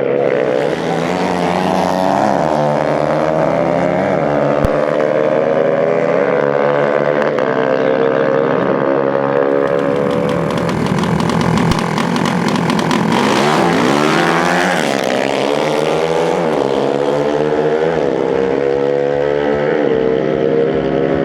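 Dirt bike engines revving, their pitch climbing and falling again and again, with a louder, harsher stretch of engine noise around the middle.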